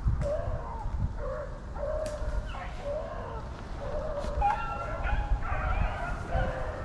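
A pack of rabbit-hunting hounds baying, several dogs giving drawn-out, overlapping calls as they run a rabbit's trail.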